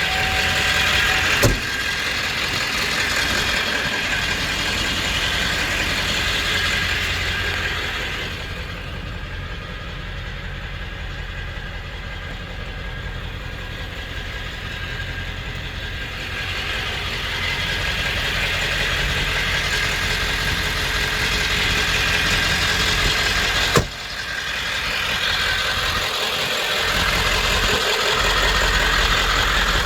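1995 Ford F350's 7.3 Powerstroke turbo diesel V8 idling steadily, a little quieter in the middle stretch. Two sharp clicks cut through, one near the start and one about three-quarters of the way in.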